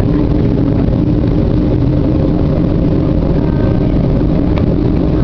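Steady low rumble and hum inside a Boeing 737-800 cabin on the ground before takeoff, from the aircraft's engines and air systems running.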